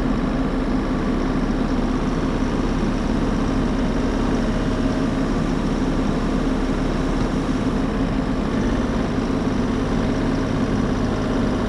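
Bobcat E50 compact excavator's diesel engine idling steadily while it warms up after a cold start in deep snow.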